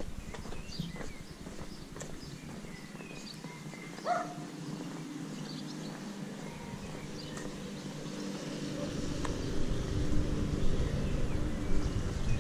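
Small birds chirping in short, scattered calls, over footsteps on a paved lane. A low rumble grows louder over the last few seconds.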